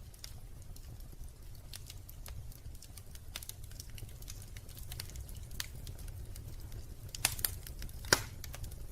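Wood fire crackling in a fireplace: scattered sharp snaps and pops over a steady low rumble. A cluster of louder pops comes about seven seconds in, and the loudest snap about a second later.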